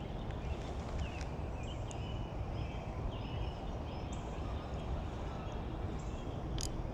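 Birds chirping in short repeated calls over a steady low outdoor rumble, with a couple of sharp clicks near the end.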